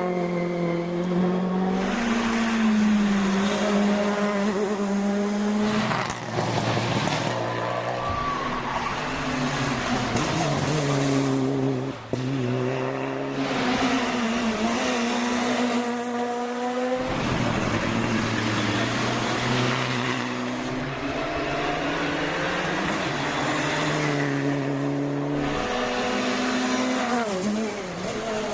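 Rally cars driven flat out on a shakedown stage, engines revving hard through the gears: the pitch climbs, drops at each shift or lift, then climbs again, over and over.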